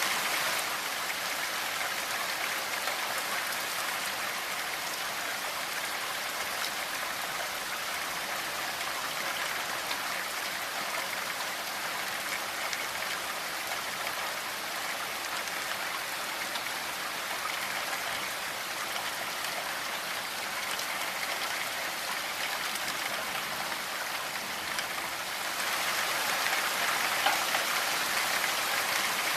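Steady rainfall, a dense hiss of falling rain and drops. Near the end it grows a little louder and brighter.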